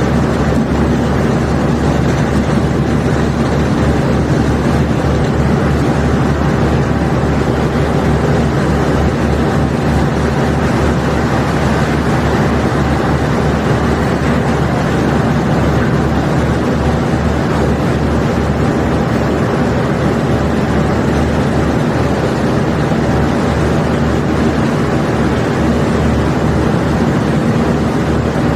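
Barge unloading machinery running steadily: a low engine drone with a rapid pulsing beat, over the noisy rush of limestone rock pouring out.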